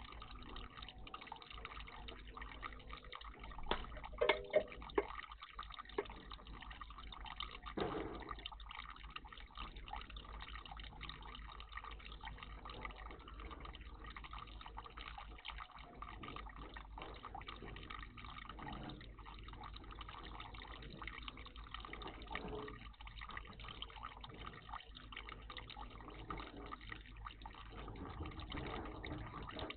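Water splashing and dripping in a garden bird bath, with a cluster of louder splashes about four to five seconds in and another about eight seconds in.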